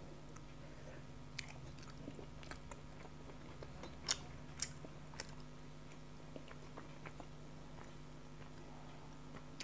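Close-miked eating sounds: biting and chewing a curried boiled egg with rice, with a few sharp wet mouth clicks, the loudest about four seconds in. A faint steady hum sits underneath.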